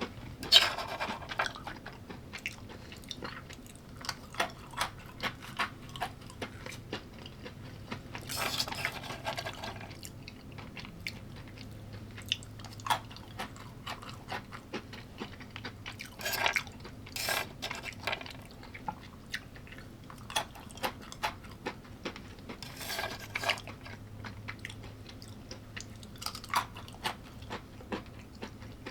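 Close-up chewing and biting of a mixed plate of arugula, carrots, beef, bacon, eggs, avocado, cheese and pecans. Many short crisp clicks run throughout, with a few longer noisy bursts, the first about a second in and another near the middle.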